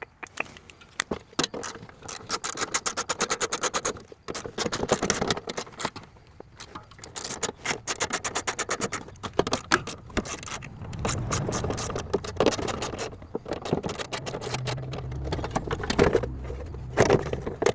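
Hand tools clicking and scraping on metal in runs of rapid clicks, as the glove box door hardware is worked loose from a 1974 Chevy Nova's dash. A low hum joins in the later part.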